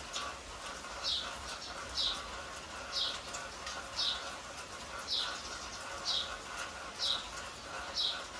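A bird repeating a short, high, falling call about once a second, over a steady background hiss.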